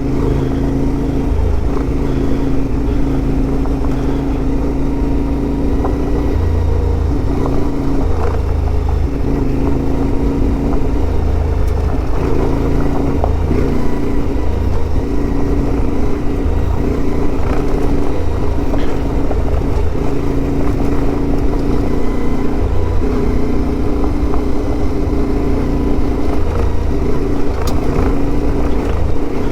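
CFMoto 450MT adventure motorcycle's parallel-twin engine running at low speed over a rocky dirt trail, with the throttle opening and easing off every second or two.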